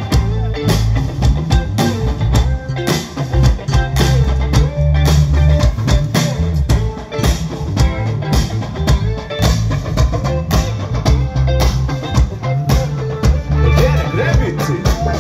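Live band playing an instrumental pop section: electric guitar, bass and drum kit with a steady beat.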